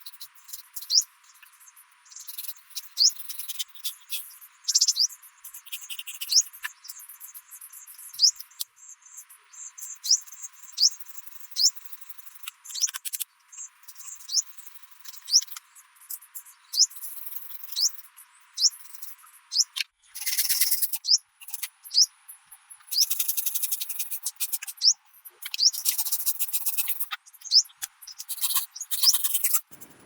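Forest wildlife chirping: short, high, rising chirps repeat about once a second, joined about two-thirds of the way in by spells of dense, buzzy, crackling trills.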